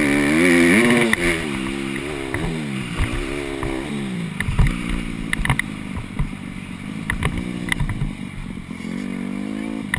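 Honda CRF150R dirt bike's single-cylinder four-stroke engine revving up and down with the throttle, its pitch rising and falling every second or so. It is loudest in the first second, settles lower in the middle and climbs again near the end, with scattered sharp knocks and clicks over it.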